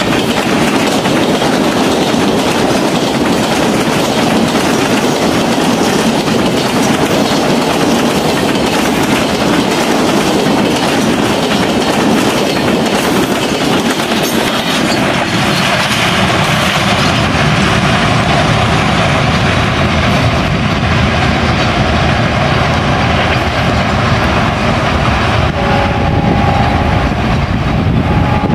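Passenger train coaches rushing past at speed, wheels clattering over the rail joints. After about fifteen seconds the clatter gives way to a lower, steady rumble.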